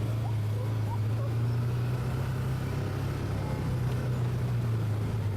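ATV engine running steadily with an even, unchanging drone.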